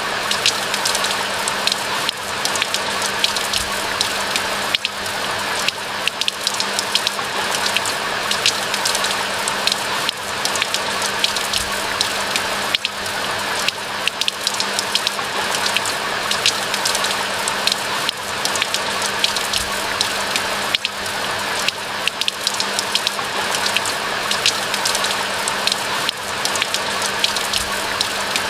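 Steady rain falling, a dense patter of many close, sharp drop impacts over an even hiss, with a faint steady low hum underneath.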